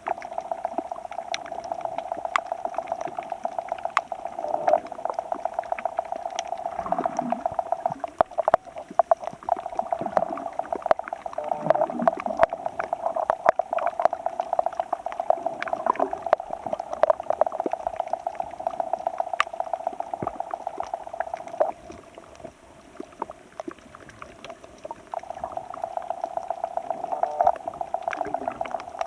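Muffled underwater sound in shallow sea water: churning, bubbling surge with many sharp crackling clicks and a steady buzzing hum, easing off briefly about two-thirds of the way through.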